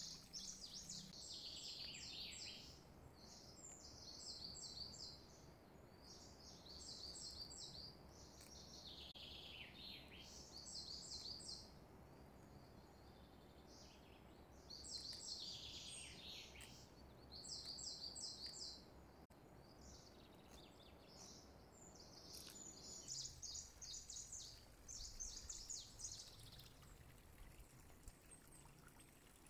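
Faint bird chirping: about ten short bouts of quick, high chirps, some sliding down in pitch, over a low steady background hum.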